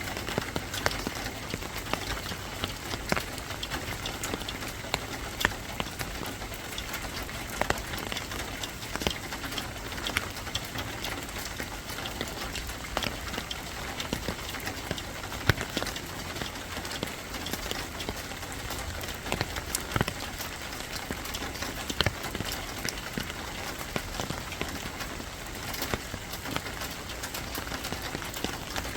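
Steady rain falling, with many sharp individual drops tapping on a surface.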